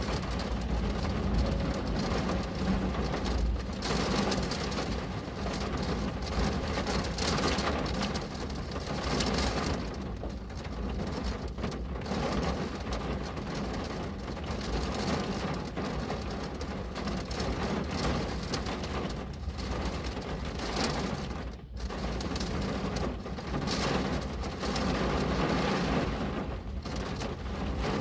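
Steady rain falling and pattering on a window, a dense even hiss that swells and eases from moment to moment.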